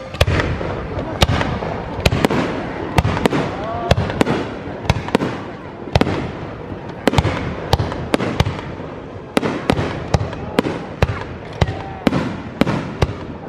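Aerial fireworks going off in quick succession: a string of sharp bangs, roughly two a second, with background voices.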